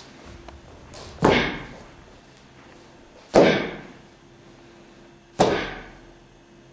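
Three sharp, forceful exhalations about two seconds apart, each cutting in suddenly and fading over half a second, as done with the movements of a Tensegrity series.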